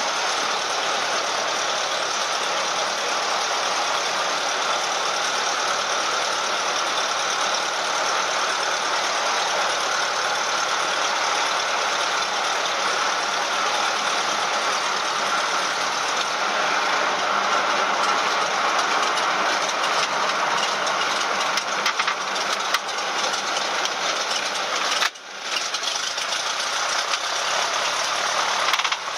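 Steady engine and propeller drone inside the cabin of a Cessna 172M, whose Lycoming O-320 four-cylinder engine runs without change. The sound dips briefly about 25 seconds in.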